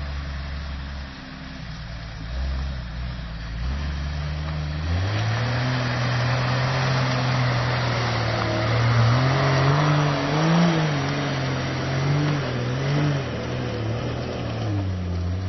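Jeep Wrangler's engine working hard under load while climbing a steep muddy slope: the engine note rises about five seconds in and then goes up and down with the throttle.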